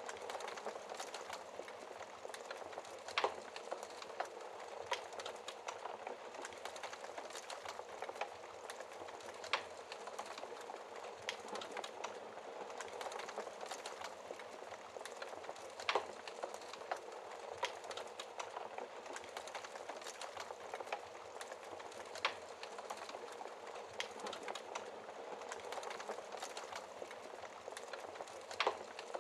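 Wood fire crackling steadily in a fireplace, with dense small crackles and a louder sharp pop every six seconds or so.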